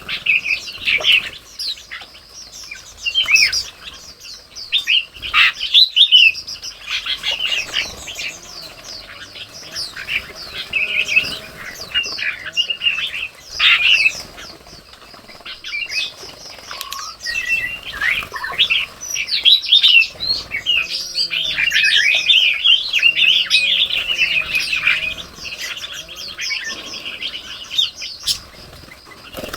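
Red-whiskered bulbuls chirping and chattering in a busy run of short, quick calls, with a few lower warbling calls underneath.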